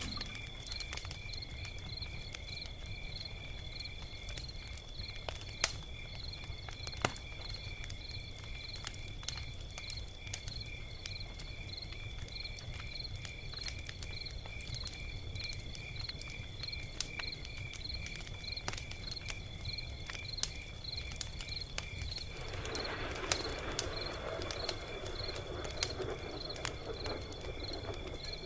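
Log fire crackling, with scattered sharp pops over a low rumble, while a cricket chirps steadily in an even rhythm of about two to three chirps a second. Near the end a rushing hiss from the fire swells for several seconds.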